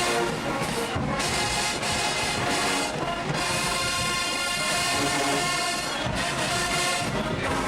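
A marching band's brass section playing a sustained, full-sounding passage.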